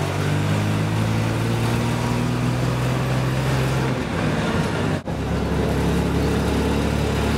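Car engine running at low speed with a steady low hum, its pitch shifting about four seconds in, with a very brief break in the sound about five seconds in.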